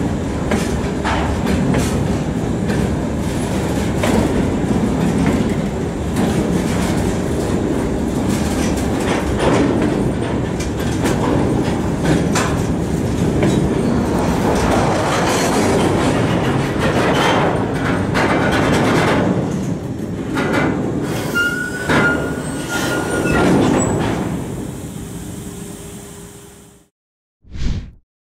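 Freight train of open gondola wagons rolling past, wheels clattering over the rail joints, with a brief high wheel squeal near the end before the sound fades out.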